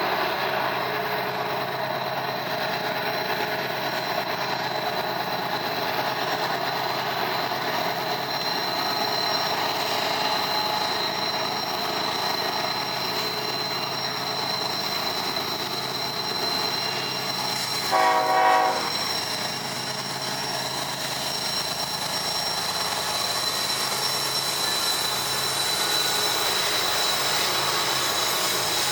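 A train running steadily with rail noise and a thin, steady high-pitched whine, and one short blast of a locomotive horn about 18 seconds in.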